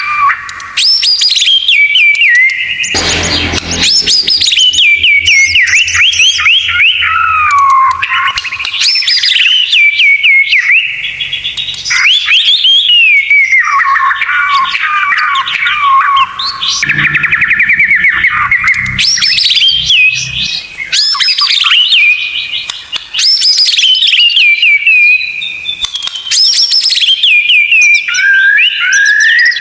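White-rumped shama (murai batu) singing continuously: loud runs of whistled phrases, sweeping notes and fast trills with little pause, with a brief harsh noisy burst about three seconds in.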